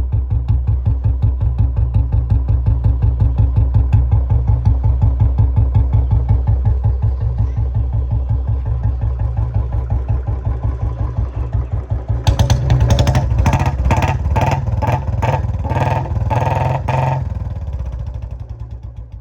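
Modified Royal Enfield Bullet Standard 350's single-cylinder engine idling with an even thumping beat through a loud aftermarket 'Chota Punjab' silencer. About twelve seconds in it is revved in a run of louder, sharper blasts for several seconds, then settles and fades near the end.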